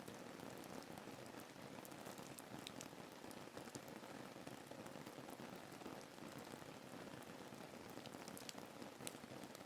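Soft, steady rain ambience: a continuous faint patter of rain with scattered individual drop ticks.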